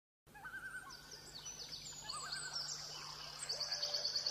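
Several songbirds calling together after a brief silence: wavering whistles and many short high chirps, with a fast high trill in the last second. A faint steady low hum lies underneath.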